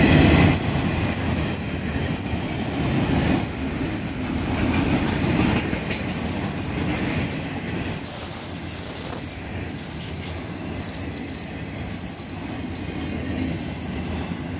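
Freight cars of a Florida East Coast Railway train rolling past on steel wheels. The sound is loudest in the first half-second, then drops and slowly fades.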